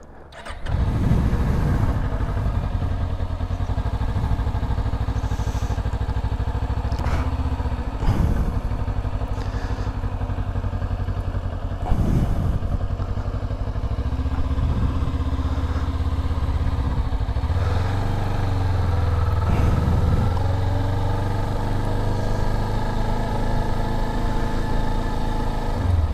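Motorcycle engine running as the bike is ridden, with a few sharp clicks along the way.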